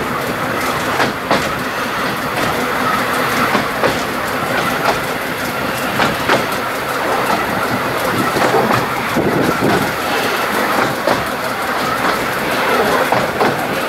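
Bala Lake Railway narrow-gauge train running along the track: a steady rumble of carriage wheels on the rails, with irregularly spaced clicks as the wheels pass over the rail joints.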